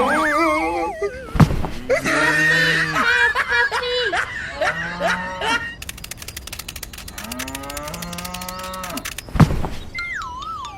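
Cattle mooing, several drawn-out calls overlapping one another. A heavy thump comes about a second and a half in, and another near the end.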